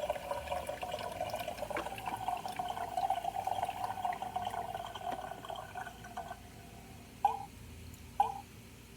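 Toy coffee maker dispensing water into a cup: a steady trickle that stops about six seconds in, followed by two short drips.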